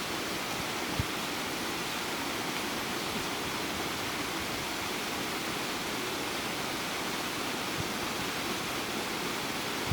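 Waterfall: a steady rush of falling water, with a brief low bump about a second in.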